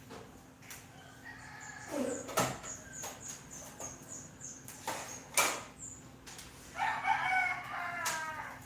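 A rooster crowing once near the end, a call of nearly two seconds. Before it come a thin high peeping repeated about twice a second and a few sharp knocks.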